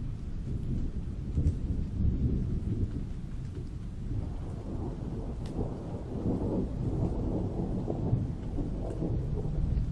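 Thunderstorm: steady rain with rolling thunder, the low rumble swelling about halfway through.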